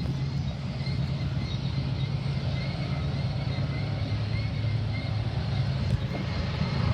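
Diesel freight locomotive engine running with a steady low drone as the train moves slowly.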